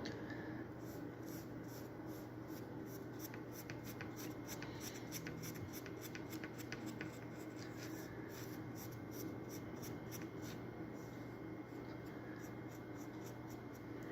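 A small paintbrush stroking and dabbing resin onto a foam-core wing, making a run of light, quick scratchy brush strokes about three a second that stop near the end. A low steady hum sits underneath.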